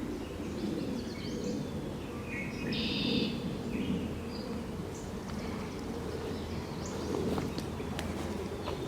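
Several short bird chirps and calls, the strongest about three seconds in, over a steady low background rumble.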